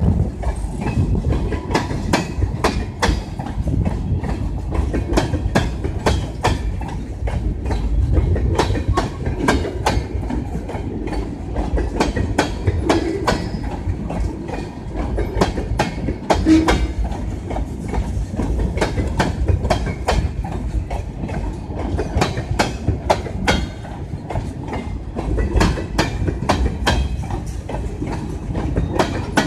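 Freight train of tank cars rolling past at close range: a steady low rumble with repeated sharp clicks as the wheels cross the rail joints.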